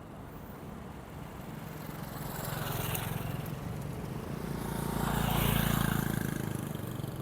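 Diesel train engine running as the train pulls in, its hum growing louder, peaking about five seconds in and then easing slightly.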